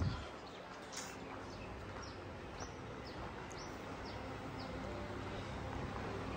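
A bird chirping: a series of short, high, falling chirps repeated every half second or so, over faint steady background noise.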